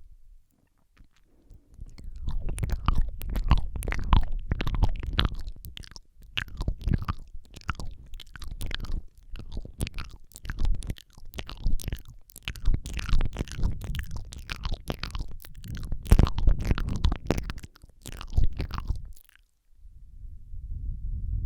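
Close-miked ASMR mouth sounds into a Rode microphone: wet lip smacks, tongue clicks and licking noises in a fast, irregular stream with a low rumble beneath. They start about two seconds in and stop near the end, followed by a softer low rumble.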